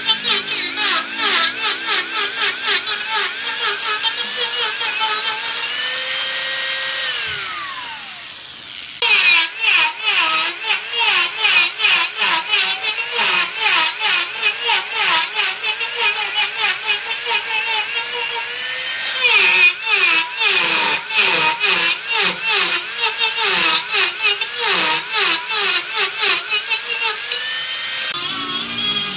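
Large wood lathe turning a wooden workpiece, with a cutting tool biting it in a fast, rhythmic chatter over the motor's running pitch. About seven seconds in the pitch falls away as the lathe slows. The cutting sound comes back suddenly about nine seconds in.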